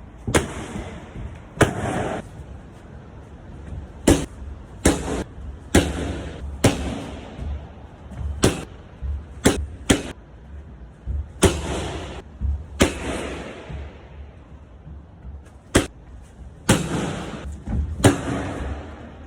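A series of sharp impacts at irregular intervals, about a dozen in all, each followed by a short noisy trail, over a low steady rumble.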